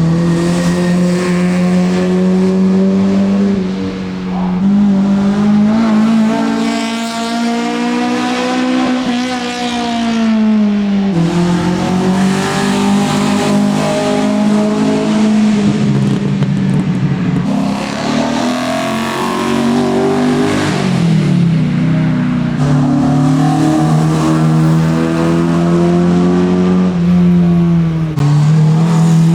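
Racing car engine accelerating hard up the hill, its note climbing in pitch and then dropping sharply at each gear change, about four times, with some tyre squeal.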